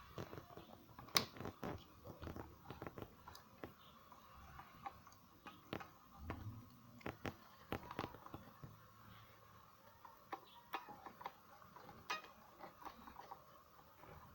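Faint, irregular small clicks and taps as thread is worked through the needle eye of a mini sewing machine.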